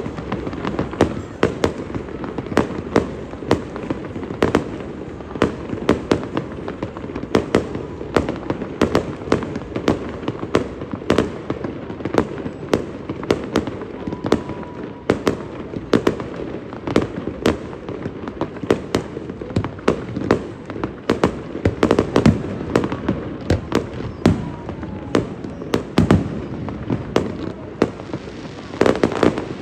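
Aerial fireworks display: a steady barrage of shell bursts, several sharp bangs a second, with no pause.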